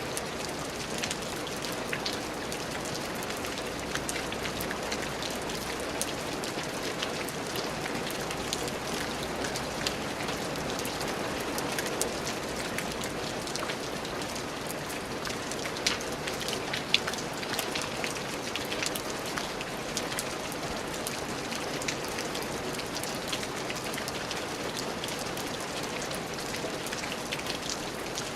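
Steady rain falling on a surface, an even hiss dotted with many individual drop impacts, a few of them louder and sharper, around the middle.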